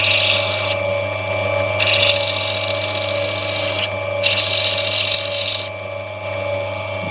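Lapidary grinding wheel running with a steady motor hum while an opal knobby is pressed against it, giving a loud grinding hiss. The hiss breaks off twice for a moment and stops a little over two-thirds of the way through, leaving the motor running alone.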